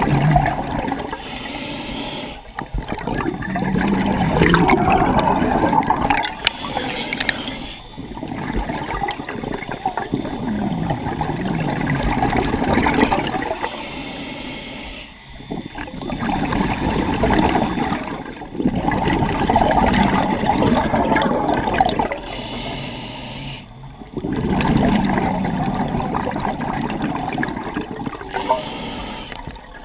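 Scuba diver breathing underwater through a regulator: loud gurgling surges of exhaled bubbles every few seconds, with quieter gaps between breaths.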